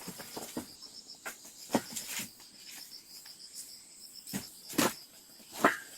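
An insect chirping in a steady, fast-pulsing high trill, with about half a dozen sharp wooden knocks of split firewood being handled and stacked.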